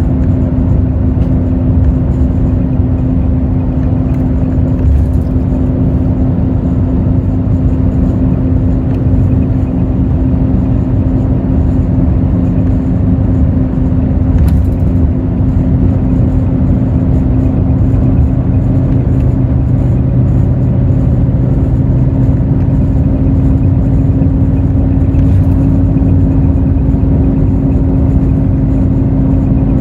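A Hino J08E-VD inline-six diesel runs at a steady cruise, heard from inside a Hino RN8JSVU bus with a heavy low road rumble under a steady engine hum. There is a short click about halfway through.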